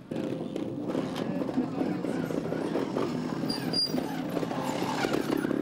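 Trials motorcycle's two-stroke engine running, mixed with the voices of a crowd.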